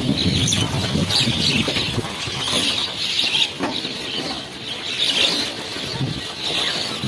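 A flock of small birds chattering, with repeated bursts of chirping over wing flapping and rustling.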